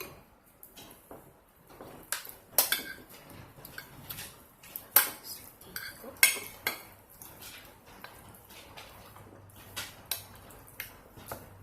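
Cutlery clinking and scraping on a plate during a meal: a string of irregular sharp clicks, the loudest about two and a half, five and six seconds in.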